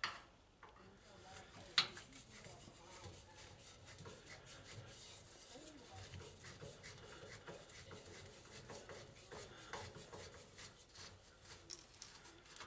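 Quiet rubbing and handling of vending-machine rotor assembly parts, with a sharp click at the start and another about two seconds in, and a few softer ticks later.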